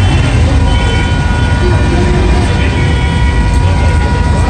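Volkswagen Beetle engines running in a slow parade: a loud, steady low rumble with faint steady whines above it.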